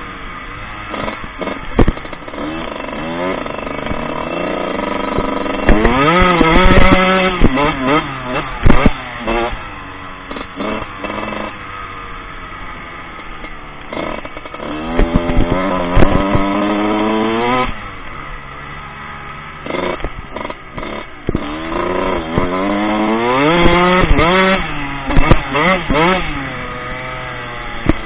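Four-stroke motocross bike engine being ridden hard. It revs up in repeated rising sweeps and drops off between them, with scattered sharp knocks and clatter.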